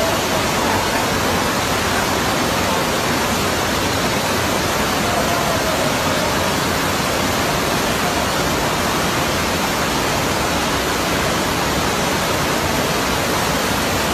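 Steady, loud rushing noise with no break, the even roar of a storm.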